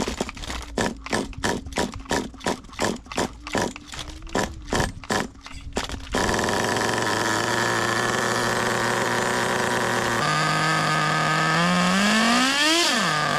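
Nitro two-stroke engine of a 1/8 scale RC rally car being cranked in a rhythmic series of strokes, about three a second. It catches about six seconds in and settles into a steady idle, then is revved up and down twice near the end.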